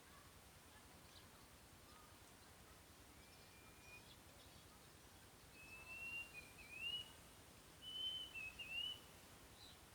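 Thin, clear whistled calls in a few short phrases, starting about three seconds in and repeated until near the end, with notes that hold level and then slur up and down. They sit over a faint outdoor background.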